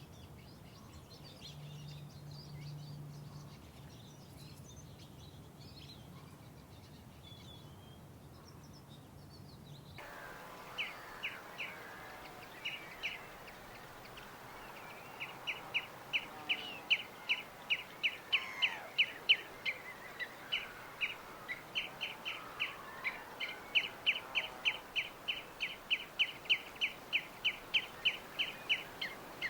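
Wild birds singing outdoors. Faint high chirps sit over a low steady buzz; about ten seconds in the sound changes abruptly, and one bird repeats a fast series of high notes, about three a second, in long runs over other birds' calls.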